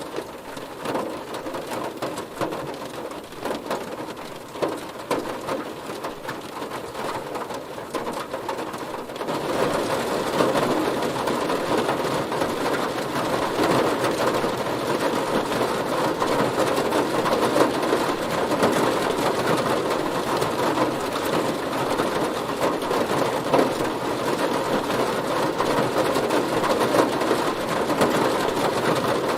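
Heavy rain hitting a car, a dense steady hiss of drops that grows louder and heavier about nine seconds in.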